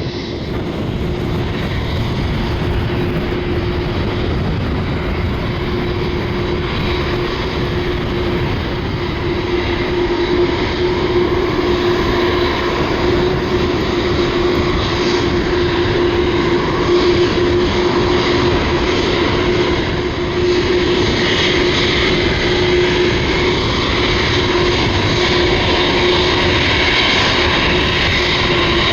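Boeing 747-8F's four GEnx-2B turbofan engines running: a steady jet noise with a constant low hum that grows gradually louder, and a higher whine joining it after about twenty seconds.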